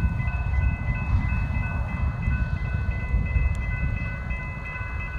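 Norfolk Southern freight train led by an SD40-2 running by at speed, a heavy, steady low rumble, with thin steady high-pitched tones over it.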